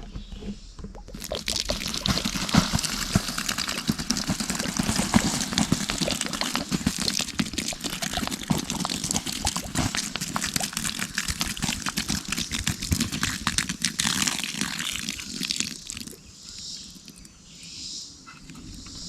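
Water poured from a canteen into the fire pit of a Dakota fire to douse the flames and embers. It pours steadily for about fourteen seconds, then thins to a trickle near the end.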